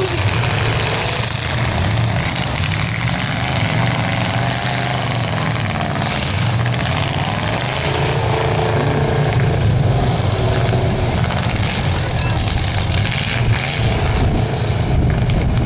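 A demolition derby car's engine running hard and steady at high revs as it pushes and spins its wheels in deep mud.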